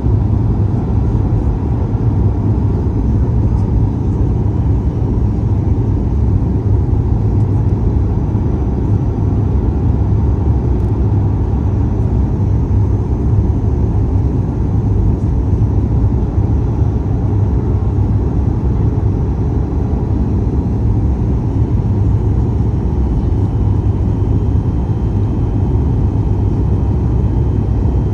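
Steady low rumble of engine and airflow noise heard inside the cabin of a Boeing 737 MAX 8 airliner in flight.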